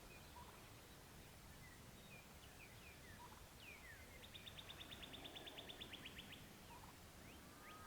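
Faint songbirds: scattered short chirps and whistles, then, about four seconds in, a rapid even trill of roughly ten notes a second lasting about two seconds.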